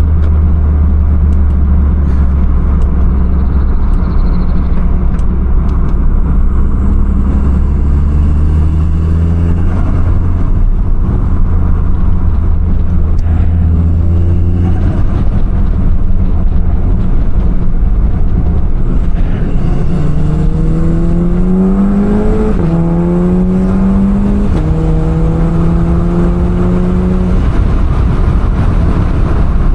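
Audi S3 8P's turbocharged 2.0 TFSI four-cylinder engine with an aftermarket downpipe, heard from inside the car, first running at a steady low drone. About twenty seconds in it accelerates, its pitch rising and then dropping twice in quick S-tronic dual-clutch upshifts, before settling into a steady cruise.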